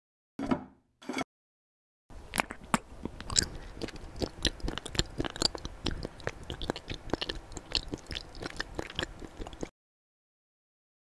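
Two short sounds near the start, then about seven and a half seconds of close-miked ASMR chewing: a dense run of small crisp clicks and crunches.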